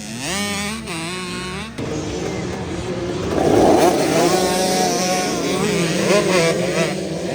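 Several dirt bike engines revving and accelerating together, their pitches rising and falling over one another, with a louder surge of engine noise about halfway through.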